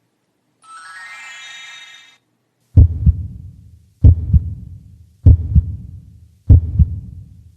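A short rising run of chiming tones, then a heartbeat sound effect: four loud, low double thumps (lub-dub), about one every 1.2 seconds.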